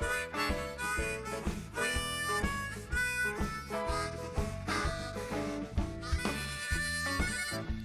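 Blues harmonica playing a solo of short held and shifting notes over a band backing with a steady shuffle beat.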